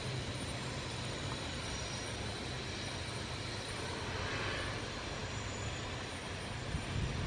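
Tank wagons of a heavy freight train rolling past over the rails: a steady low rumble of steel wheels on track.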